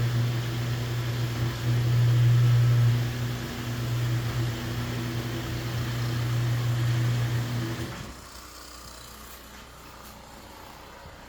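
Electric motor humming steadily, then shutting off abruptly about eight seconds in.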